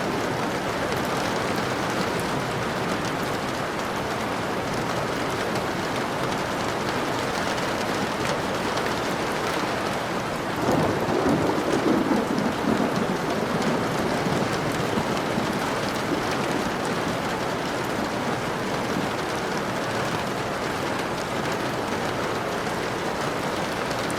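Steady rain falling. Near the middle a low rumble swells for about two seconds over the rain.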